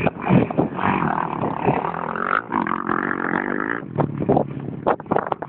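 Motocross bike engine revving hard, its pitch climbing about two seconds in and holding high before the throttle is shut off sharply near the end, followed by choppy knocks.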